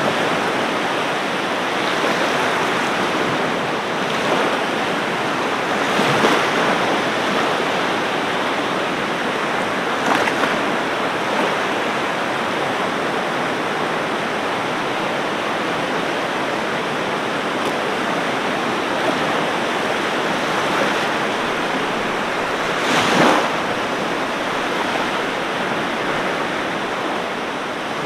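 Ocean waves washing on a beach: a continuous rush of surf with occasional louder breaks, the strongest about twenty-three seconds in.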